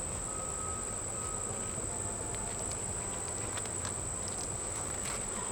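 Honeybees buzzing steadily around an open hive during an inspection, with a steady high-pitched tone above the buzz and a few faint light ticks.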